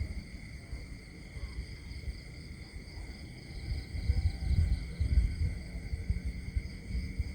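Countryside nature ambience: a steady, high-pitched chorus of insects chirring, over an irregular low rumble that grows louder about halfway through.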